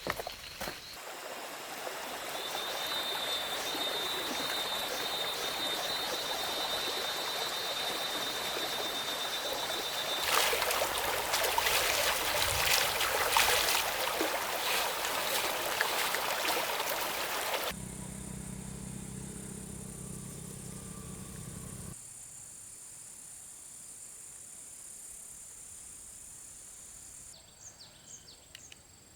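Outdoor natural ambience: a steady rushing noise with insects calling, changing abruptly several times.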